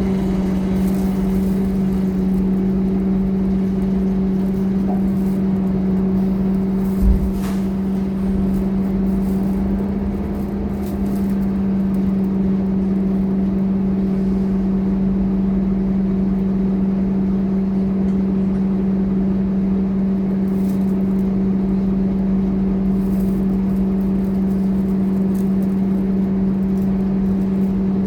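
Scania K230UB city bus's five-cylinder diesel drivetrain droning at a steady pitch while the bus cruises. There is a single thump about seven seconds in and a brief dip in level around ten seconds in.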